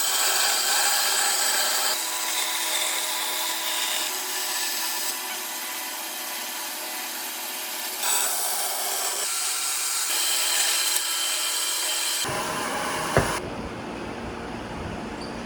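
A power tool working wood: a rasping noise under a steady motor whine, its sound shifting every couple of seconds. It stops about twelve seconds in, leaving quieter background with a single sharp knock.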